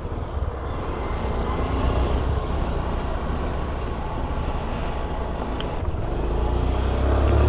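Two-wheeler engine running just after being started, growing louder toward the end as the bike gets under way.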